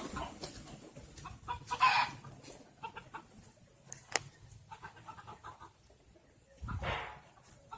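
A chicken clucking in a few short, separate calls, with a single sharp click about four seconds in.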